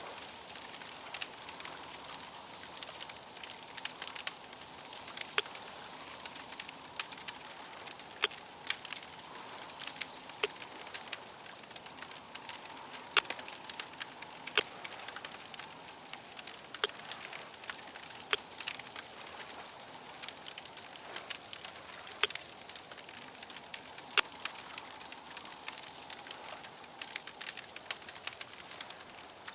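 Wood fire crackling: a steady hiss with frequent irregular sharp pops and snaps.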